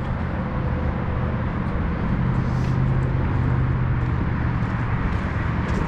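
Steady low drone of road traffic, swelling a little about two seconds in.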